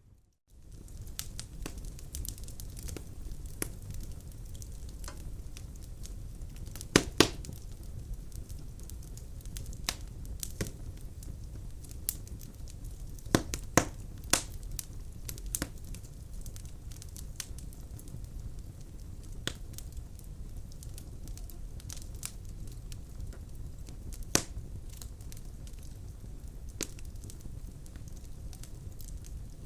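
Wood fire burning in a fireplace: a steady low rumble of flames with scattered crackles and sharp pops, the loudest about seven, fourteen and twenty-four seconds in.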